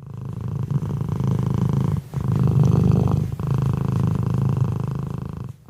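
Domestic cat purring loudly, close up: a steady pulsing rumble in three long stretches, broken by short pauses about two seconds and three seconds in.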